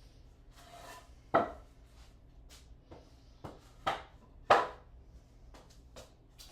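A few sharp knocks, wood being set down or tapped: three loud ones about a second and a half in and around four seconds, with lighter clicks between.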